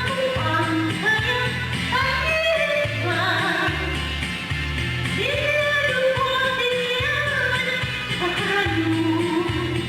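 A woman singing a song over an instrumental accompaniment with a steady, regular bass line.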